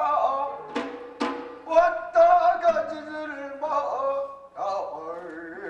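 A male voice chanting a Korean bina-ri blessing song in a wavering melodic line, with a few sharp drum strikes, mostly in the first two seconds.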